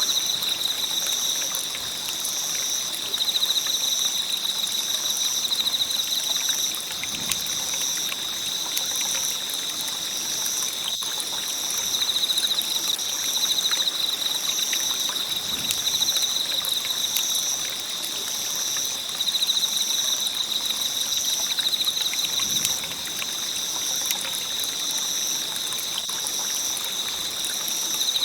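Wood campfire burning with a steady crackle of many small pops, over a continuous high-pitched pulsing trill.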